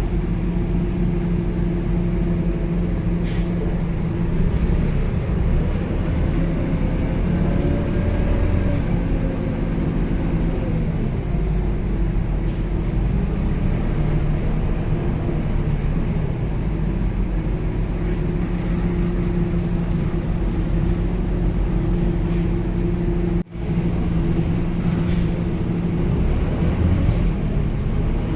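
Scania K270UB city bus heard from inside the cabin while under way: the engine and drivetrain run steadily under road noise. The engine note rises and then falls once, about a third of the way in, and the sound cuts out for a split second near the end.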